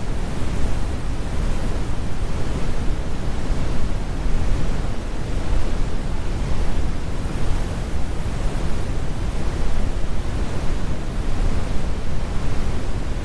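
Synthetic brown noise: a steady, deep rumbling hiss with most of its weight in the low end and the highs rolled off, unchanging throughout.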